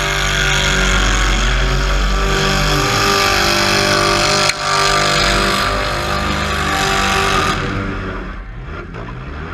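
Demolition derby car's engine revving hard under load, heard close up from the onboard camera. About four and a half seconds in there is a brief dip, and about seven and a half seconds in it backs off to a lower, quieter running.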